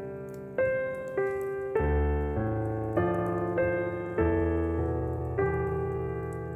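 Solo piano playing a slow praise hymn, chords struck about every half second or so and each left to fade.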